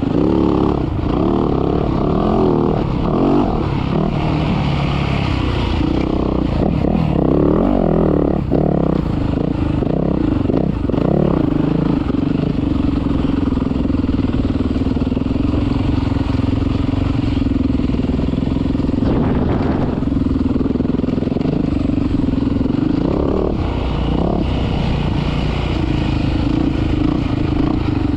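Dirt bike engine running hard, its revs rising and falling repeatedly, then held at one steady pitch for about ten seconds before rising and falling again near the end.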